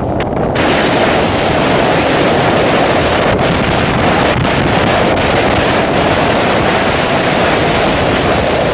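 Storm-force arctic wind rushing and buffeting the microphone, loud and unbroken with a deep rumble.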